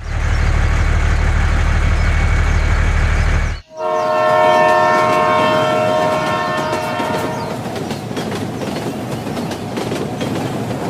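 Train running with a loud low rumble, then, after a brief break, a multi-tone train horn sounding for about three and a half seconds over the continuing rolling noise of the train.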